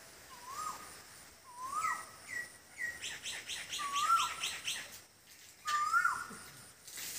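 Songbirds calling. One bird repeats a short rising whistle every second or two, and a second bird gives a fast run of high chirps, several a second, near the middle.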